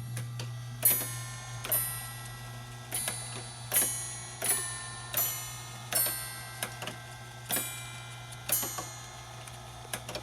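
Deagan Celesta-Chime carillon striking its tuned metal chimes one note at a time from a music roll: about nine bell-like notes at uneven intervals, each ringing briefly, over a steady low hum.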